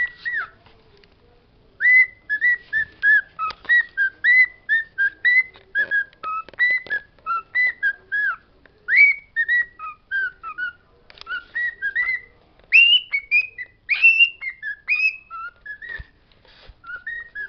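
Pet bird whistling a fast run of short notes that glide up and down, several a second, with a short pause near the start and another near the end.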